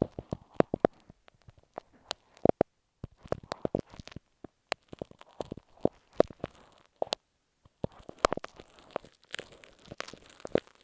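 Glue stick worked against earphone microphones wrapped in masking tape. It makes close, irregular crackling taps and scratches of the tape, with short pauses between bursts.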